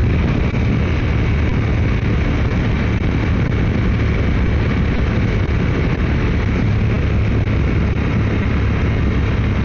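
Motorcycle running at steady highway speed, with the engine's low hum under a constant rush of wind and road noise heard from the rider's seat.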